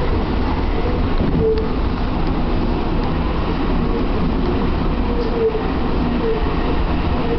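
Flood-swollen river water rushing past, a steady loud noise heaviest in the low rumble.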